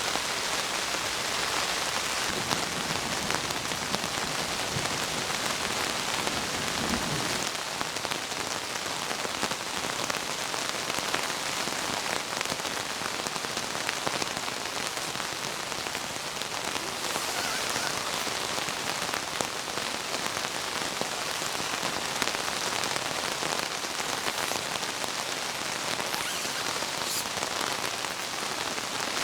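Heavy rain falling steadily, a dense hiss of many small drop impacts.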